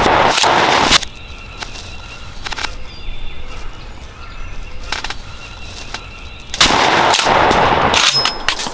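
Two loud shotgun blasts about six seconds apart, alike in shape, from shooting at a wild turkey gobbler.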